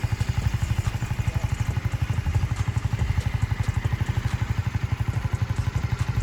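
Motorcycle engine running steadily at low revs, with a rapid, even pulsing exhaust beat.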